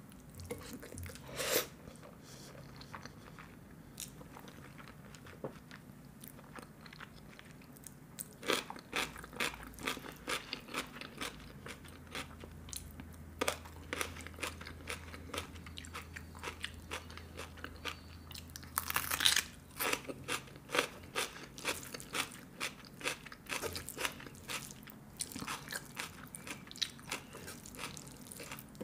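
Close-miked eating: chewing a mouthful of hand-eaten rice and curry, with many short sharp mouth clicks that come thicker from about a third of the way in and bunch up about two-thirds through.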